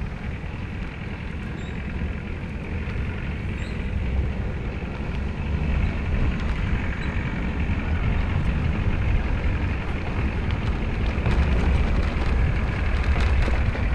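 Wind buffeting and road rumble while riding, a dense low rumble that slowly grows louder, with a few faint ticks near the end.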